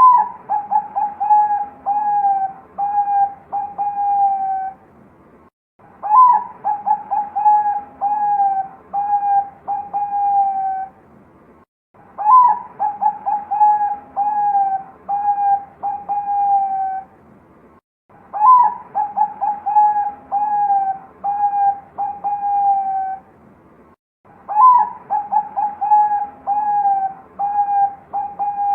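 Bangkok-strain perkutut (zebra dove) cooing loudly and clearly: five repeated song phrases about six seconds apart, each opening on a higher note and followed by a quick run of short, even coos.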